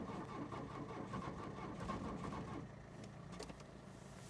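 Audi 200's starter motor cranking the engine, which turns over without catching, a steady whine over a rapid pulsing; the cranking stops about two and a half seconds in.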